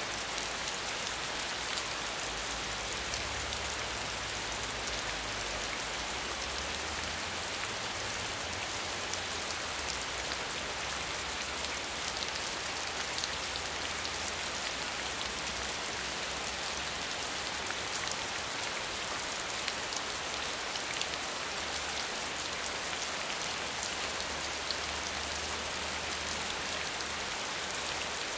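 Medium rainfall coming down steadily: an even hiss of rain with scattered small drop taps.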